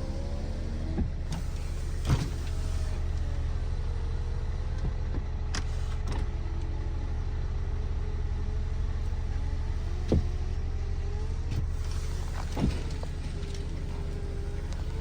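Kia Sportage 2.0 turbo diesel engine idling steadily, with a handful of sharp clicks and knocks over it.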